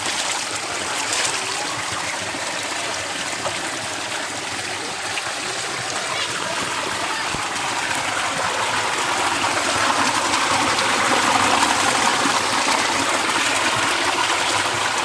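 Water of a natural waterfall rushing and splashing steadily, growing a little louder about ten seconds in.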